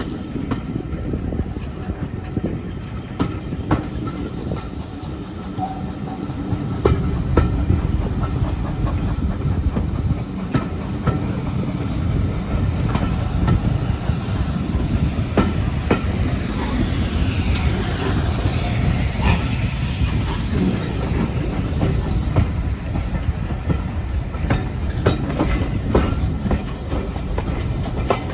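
Train running along the line: a steady low rumble with scattered clicks of wheels over rail joints. About halfway through, a hissing rush swells and falls in pitch, then fades.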